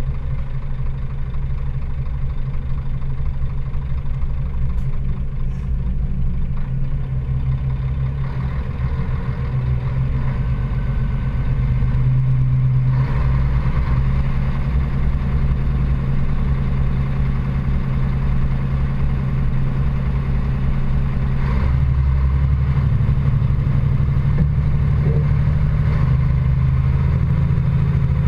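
Scania lorry's diesel engine running steadily, getting a little louder about halfway through and again later.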